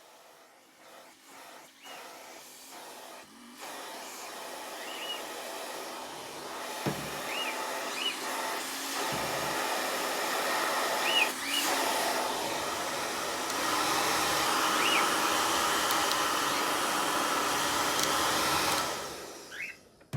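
Handheld hair dryer running, blowing with a steady hiss that grows louder in steps and then cuts out near the end.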